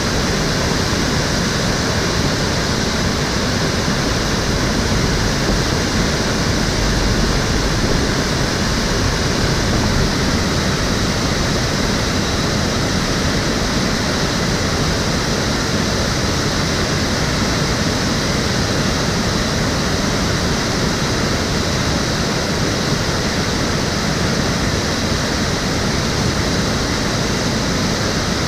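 Water of the Cheonggyecheon stream flowing and rushing in a steady, loud, unbroken wash.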